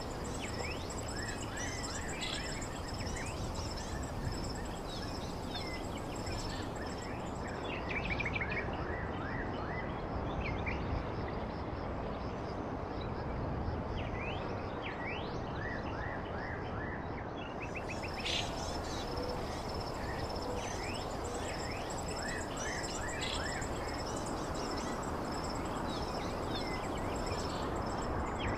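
Songbirds chirping in short, quick calls that come in clusters, over a steady low background hiss, with a high thin pulsing trill that drops out for several seconds in the middle.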